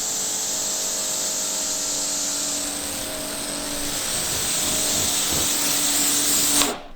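Electric pressure washer running and spraying: a steady motor-pump hum under a loud hiss of the water jet, cutting off suddenly near the end when the trigger is released.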